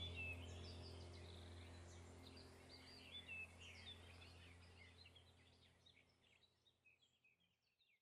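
Birds chirping over a steady low hum, the whole fading out gradually to silence by the end.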